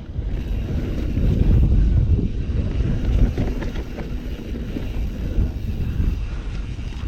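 Mountain bike riding downhill off-trail: wind buffeting the on-board microphone over a low rumble of tyres on dirt, with a few small rattles and clicks from the bike.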